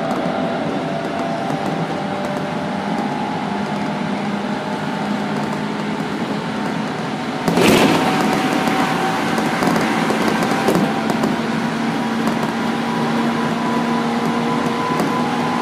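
Running noise of a Tokyu 9000 series train with Hitachi GTO-VVVF drive, heard in the car over its bogie: wheels on rail with a faint steady whine underneath. About halfway, the noise suddenly gets louder and stays up. This bogie is the one without the abnormal noise.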